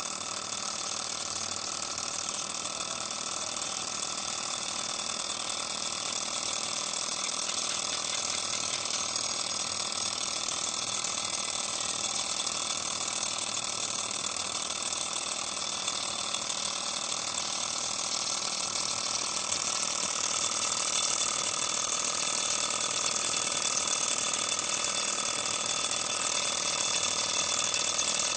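Miniature Stirling engine running at speed, its small crank and linkage making a fast, steady mechanical clatter, like a ratchet, that grows a little louder about two-thirds of the way in.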